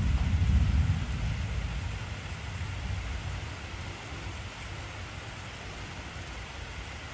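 Heavy rain falling steadily, with a deep rumble of thunder that is loudest at the start and fades away over about four seconds.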